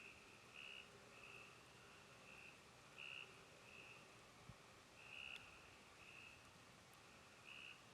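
Faint chorus of frogs calling at night: short, high calls repeating about once or twice a second, with a couple of tiny clicks and a soft thump about halfway through.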